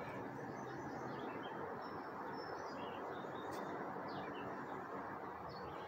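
Faint, scattered bird chirps over a steady outdoor background hiss.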